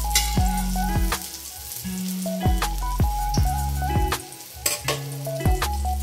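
Eggplant omelettes sizzling as they fry in oil in a wok, under background music with a deep, steady beat.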